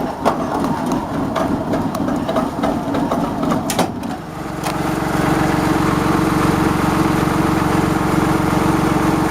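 A few scattered knocks and clicks, then about four and a half seconds in an engine starts running and settles into a steady idle.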